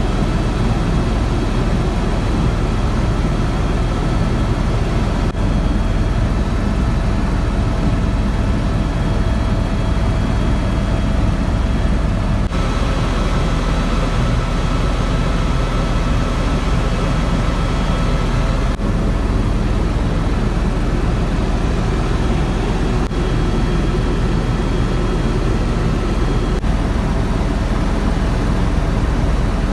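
Airbus EcoStar helicopter in flight: steady, loud rotor and turbine noise with a constant high whine over a heavy low drone. The sound shifts abruptly a few times, as if separate clips are cut together.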